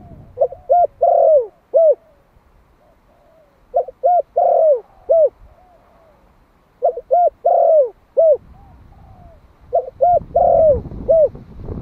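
Male spotted dove cooing its calling song: four phrases about three seconds apart, each of two short coos, a longer drawn coo and a short falling final note.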